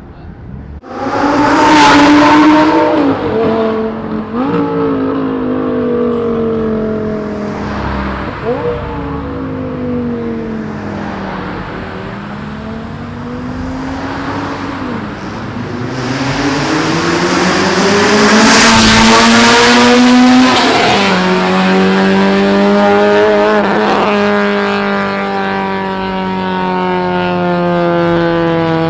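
Loud modified car exhaust as an engine revs up and drops several times, its pitch climbing and then falling away sharply as with gear changes. It is loudest about two seconds in and again about two-thirds of the way through, and falls off slowly near the end.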